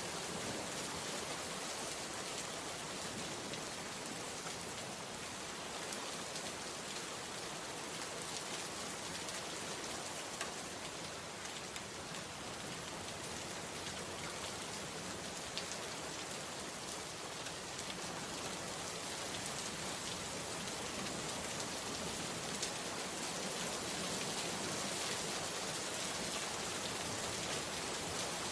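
Steady rain falling: a dense, even hiss with scattered sharp ticks of single drops.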